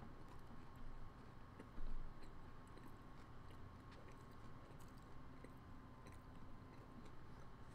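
Faint chewing of a mouthful of bacon chicken sandwich, with small scattered wet clicks, and a brief louder noise just before two seconds in.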